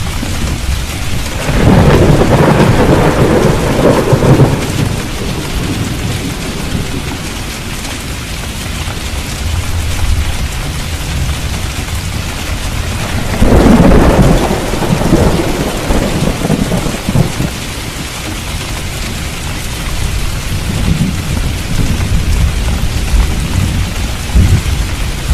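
Steady rain falling, with rolling thunder rumbling twice, about two seconds in and again past the halfway point, each rumble lasting a few seconds, and a fainter rumble near the end.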